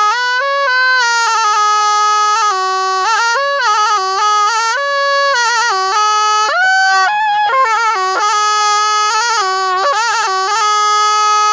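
Thai pi, a reed oboe, playing a solo melody in a bright, nasal tone. It moves between held notes and quick trills and grace-note flurries.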